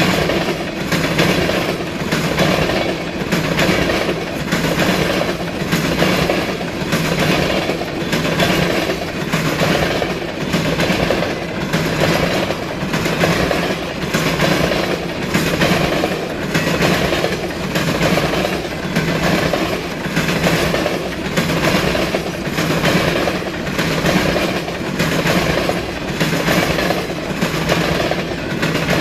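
Freight train of tank cars rolling past, the wheels clacking over the rails in a steady rhythm of about one beat a second.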